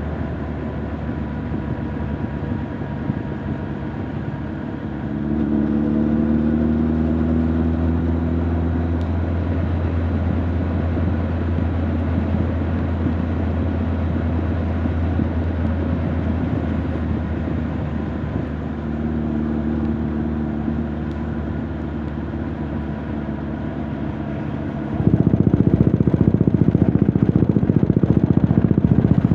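Honda CB1300 Super Bol d'Or's inline-four engine and exhaust under way, heard from the rider's back: a low, steady exhaust note that climbs in pitch a couple of times as the bike pulls. Near the end it grows suddenly much louder and stays there.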